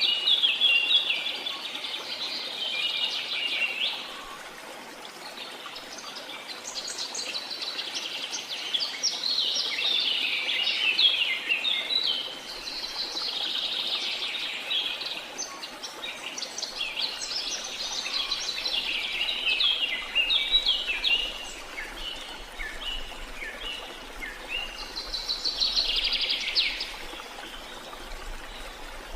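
Birds chirping and singing in quick runs of short notes throughout, over a faint steady rush of water.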